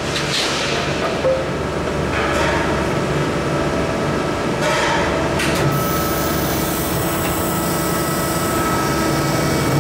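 Maru Kikai 300-ton, 4 m press brake running with a steady machine hum while bending steel plate, with a few metal knocks and clanks.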